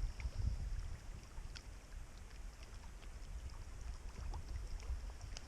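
Low, steady wind rumble on the microphone, with a few faint scattered ticks.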